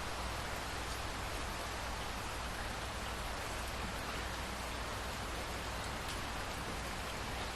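Steady rain falling, a dense even hiss with a few separate drops ticking now and then.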